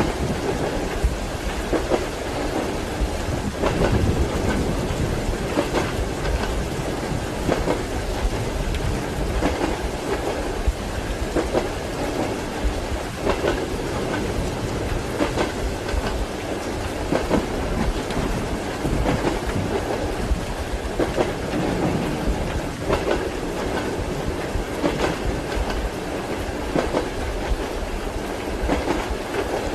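Railway carriage wheels clacking over rail joints at a steady running rhythm, under a constant hiss of rain.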